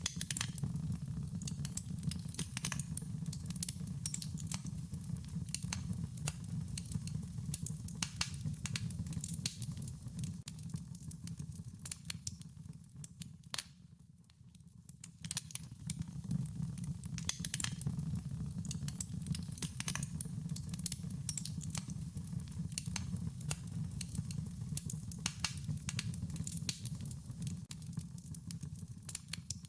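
Wood fire burning, with frequent sharp crackles and pops over a low steady rumble of flames. The sound dips down briefly about halfway through, then comes back.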